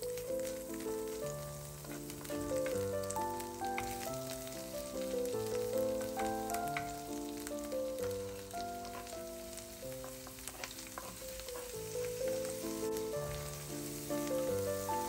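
Garlic and diced red onion sizzling and crackling in butter in a cast-iron frying pan, stirred with a wooden spatula. Background music of held melodic notes plays throughout and is the most prominent sound.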